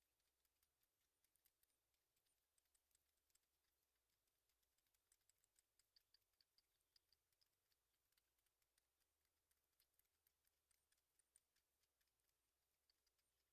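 Near silence, with scattered faint ticking clicks and a short run of faint high chirps about halfway through.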